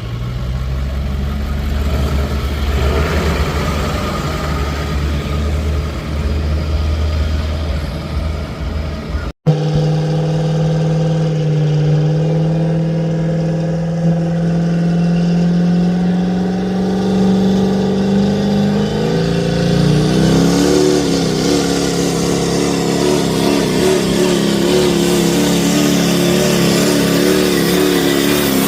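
Pulling truck's engine running hard under load as it drags the sled. After a low rumble and an abrupt break about a third of the way in, its pitch climbs slowly, then wavers up and down near the end.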